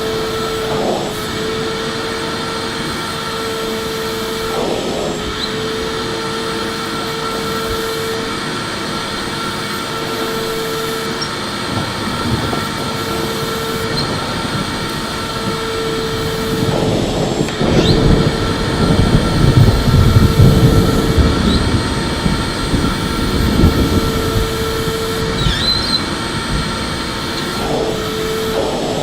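Electric vacuum cleaner running continuously with a steady motor whine and a rushing of air, getting louder and rougher for several seconds past the middle.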